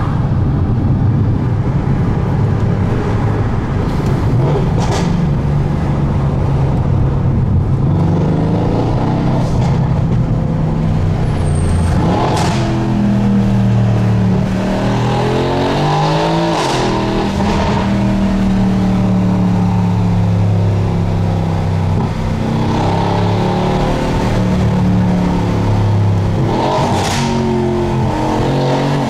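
RennTech-tuned Mercedes-AMG C63 S's 4.0-litre twin-turbo V8 pulling hard, its note rising and dropping back several times as it accelerates through the gears, with a few sharp cracks at some of the shifts.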